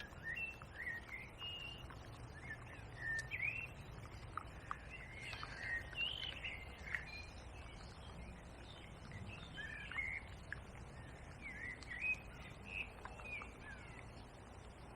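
Small birds singing and chirping in short, quick phrases that rise and fall, over a steady low background noise.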